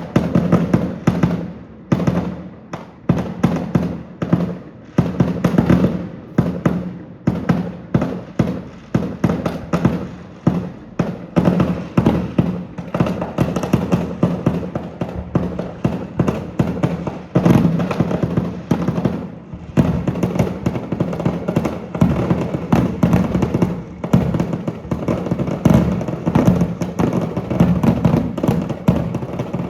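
Aerial fireworks going off in rapid succession: many bangs and crackles close together, overlapping without a break.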